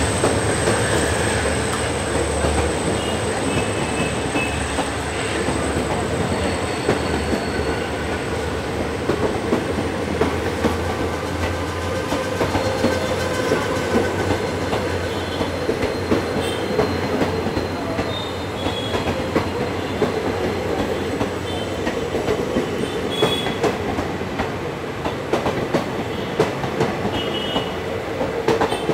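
Passenger coaches of an Indian Railways express rolling past at speed. The wheels make a steady rumble, with sharp clicks over the rail joints and faint, brief high squeals now and then.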